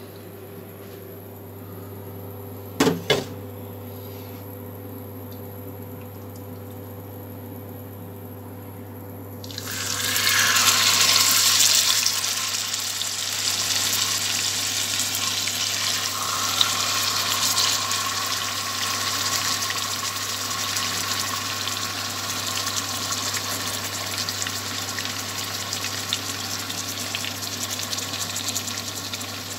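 Spice-marinated chicken pieces going into hot oil in a karahi: a loud sizzle breaks out about a third of the way in, strongest for the first couple of seconds, then settles into a steady frying sizzle. Two sharp knocks come a few seconds before the sizzle starts.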